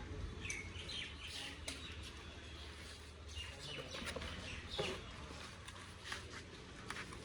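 Faint birds chirping, with a few scattered light clicks and a low background hum.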